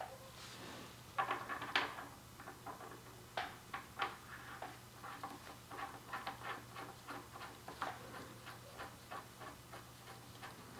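A run of light, irregular clicks and taps, about two or three a second, over a faint steady hum.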